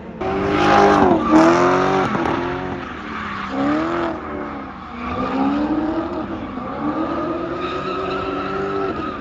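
A drift car's engine revving up and down several times as it slides, with tyres skidding.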